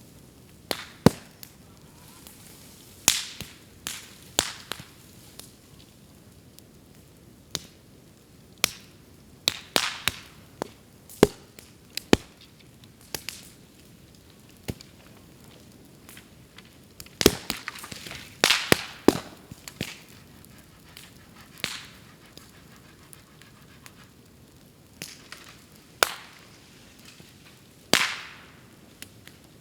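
Bamboo burning in a bonfire: irregular sharp pops and cracks as the heated culms burst, a dense run of them about two-thirds of the way through, some trailing a brief hiss.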